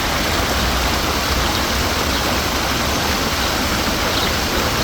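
Public water fountain splashing steadily, a constant rush of falling water.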